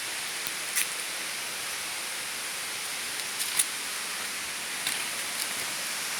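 Steady rushing of a waterfall, with a few short sharp clicks.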